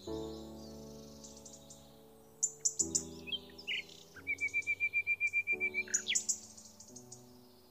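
Birds chirping, with a fast, even trill of short notes in the middle, over background music of held chords that change every second or so.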